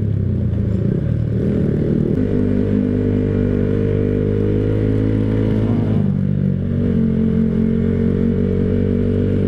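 Yamaha motorcycle engine running under way, heard from the rider's seat. It is a steady hum whose pitch shifts about two seconds in and again about six seconds in.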